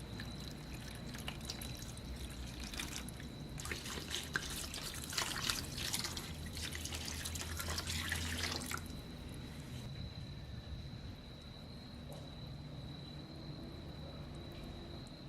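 Water trickling and splashing with many small crackles, which stops about nine seconds in and leaves a quieter hiss. A faint, steady, high tone runs underneath.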